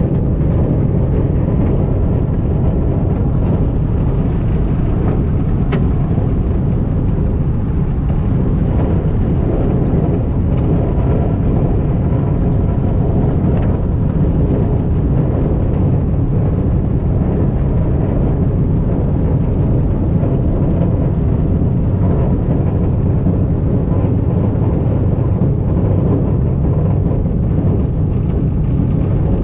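Light aircraft engine and propeller running steadily at low power while taxiing, heard loud from inside the cockpit.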